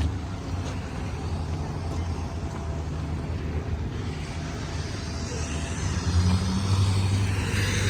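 Street traffic: a steady low engine rumble from passing road vehicles, growing louder about six seconds in as another vehicle comes close, with tyre hiss rising near the end.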